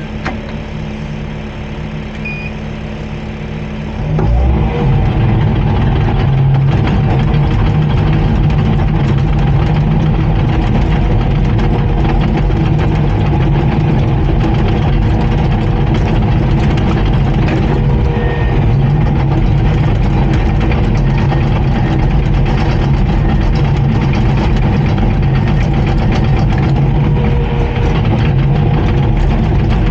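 Diesel engine of a Komatsu D39PX crawler bulldozer running at a low idle, then stepping up to a louder, steady higher speed about four seconds in, which it holds.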